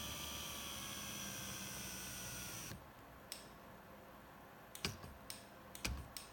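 BMW E38 electric seat motor running with a steady whine that sags slightly in pitch, then cutting off suddenly a little under three seconds in. After it come about five sharp clicks, spaced irregularly.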